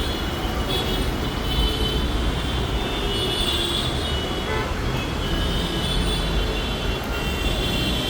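Steady low rumble of vehicles in motion, with a high whine coming and going over it.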